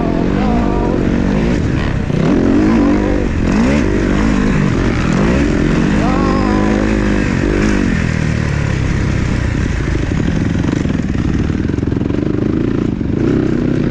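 Motocross dirt bikes running on the track, their engine pitch repeatedly rising and falling as the riders rev and shift.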